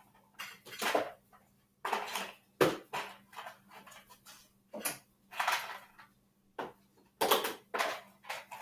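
Small hard objects clattering and knocking together in irregular bursts, as craft supplies are rummaged through and moved around in their containers.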